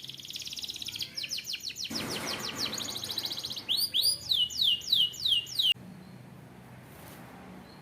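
Canary singing: rapid high trills, then a run of loud down-slurred whistled notes at about two a second that stops abruptly about six seconds in.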